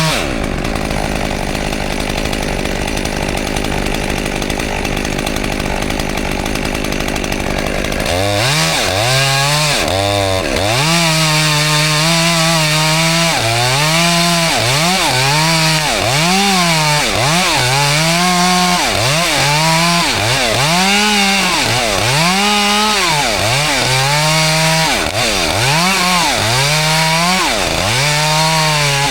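Two-stroke chainsaw held at high revs for about eight seconds, then revved up and down over and over, about once every second or two, as it cuts wood.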